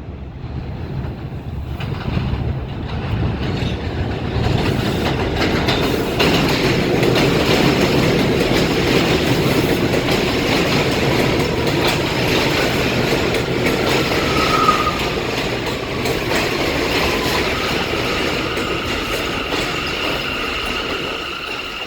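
New York City subway train on the elevated BMT Jamaica Line running past the platform: a loud rumble and rattle of wheels on steel track that builds over the first several seconds and stays loud, with a thin falling squeal near the middle and a high steady wheel squeal near the end.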